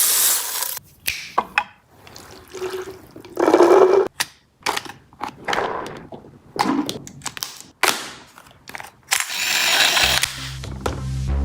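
Irregular clicks, knocks and short hissing bursts from handling and working a toy ARP556 gel blaster. Electronic music with a heavy bass comes in near the end.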